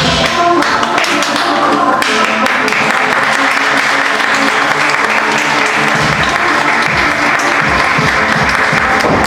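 A crowd applauding over loud music playing through the hall's speakers; the applause swells about two seconds in.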